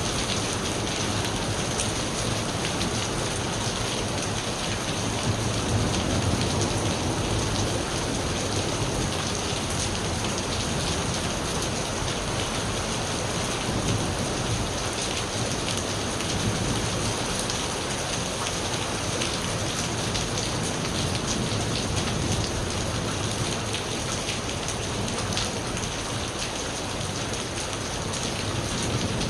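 Steady rain falling, a dense hiss of drops hitting surfaces, with a low rumble of distant thunder underneath.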